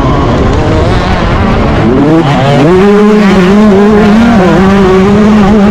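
Yamaha YZ125 two-stroke motocross engine running hard under throttle. Its pitch climbs steeply a little over two seconds in and then holds high, dipping briefly about four seconds in.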